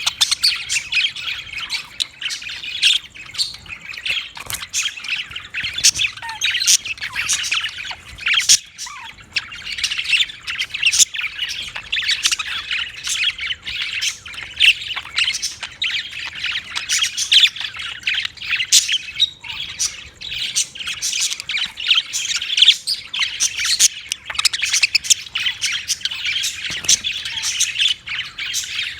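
Budgerigars chattering and squawking: a dense, unbroken run of short, overlapping chirps.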